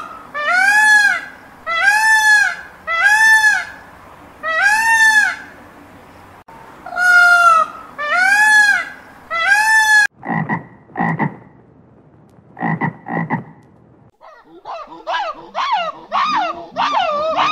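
Animal calls: a run of short, arching pitched calls, about one a second, then a few short low calls, and near the end a faster wavering call.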